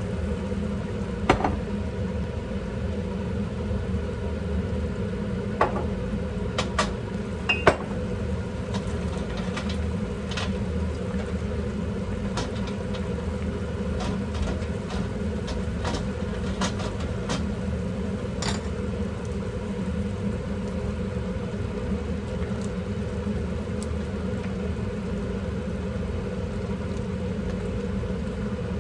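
Steady low mechanical hum of a kitchen appliance, with a few sharp clinks of utensils against dishes, most of them in the first eight seconds.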